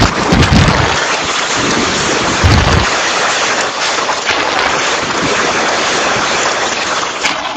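Typhoon wind gusting hard against the microphone with a steady hiss of heavy rain; the low buffeting gusts come in the first few seconds, then ease, leaving the rain hiss.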